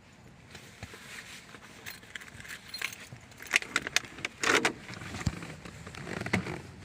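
Keys jangling and clinking, with scattered small clicks and knocks. The jingling is loudest about three and a half and again about four and a half seconds in.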